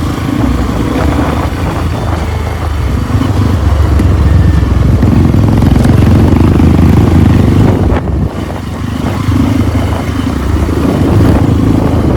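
Trail motorcycle engine running under changing throttle, its note swelling and easing several times, with a brief drop about eight seconds in.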